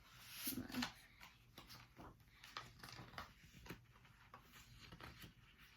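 Near silence: quiet room tone with a few faint clicks and rustles.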